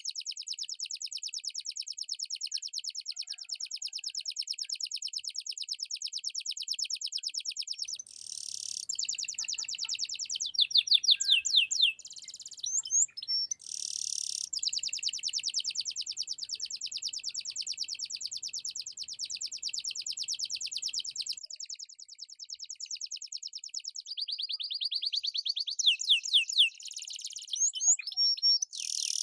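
Domestic canary singing continuously: long rolls of rapidly repeated high notes, broken twice by quicker trills and sweeping whistled notes.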